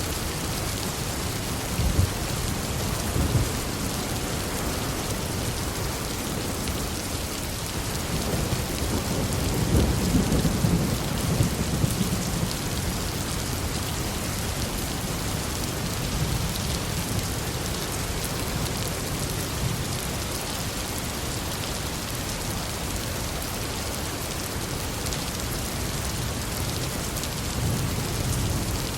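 Heavy, steady rain with thunder rumbling through it. Two brief sharp cracks come about two and three seconds in, and the loudest, longest roll of thunder comes around ten seconds in, with fainter rumbles later.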